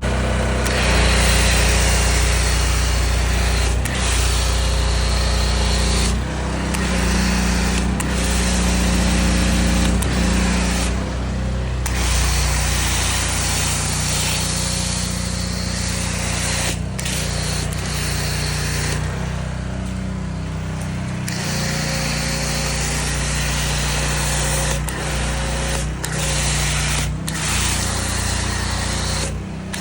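Pressure washer running steadily with its spray hissing. The spray stops briefly about eleven seconds in and again for a couple of seconds around twenty seconds in, while the motor keeps running.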